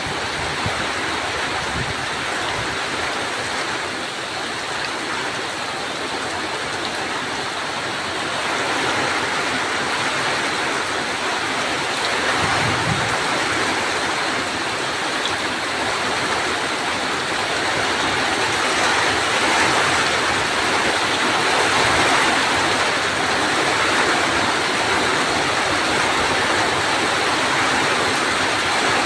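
Heavy rain pouring down steadily as an even hiss, growing a little heavier about eight seconds in.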